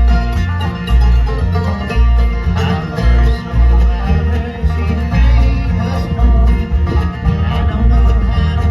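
Bluegrass band playing a song, with plucked strings over a steady bass beat.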